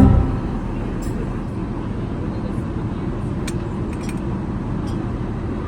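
Steady airliner cabin noise, an even rumble of engines and airflow, with a few faint light clicks in the second half.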